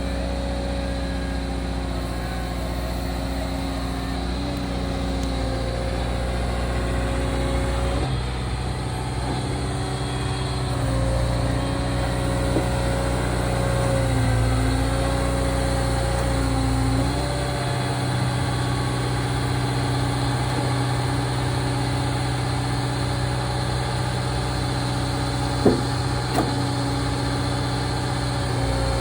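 Liebherr R926 Compact tracked excavator running, its engine and a whine holding steady and then stepping in pitch several times. Two sharp knocks come near the end.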